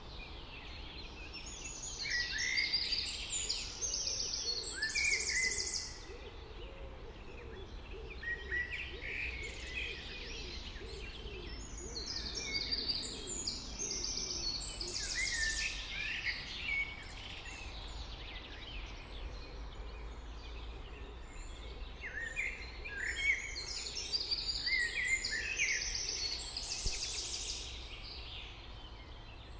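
A songbird singing a long, varied song three times, about ten seconds apart, each song ending in a fast high trill. A steady low rumble of background noise lies underneath.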